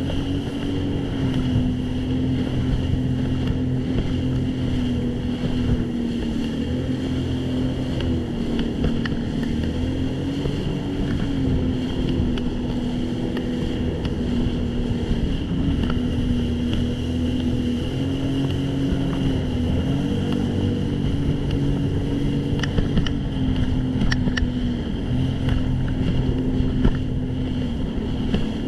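Jet ski engine running steadily under way, its pitch rising and falling slightly with the throttle. A few sharp clicks come near the end.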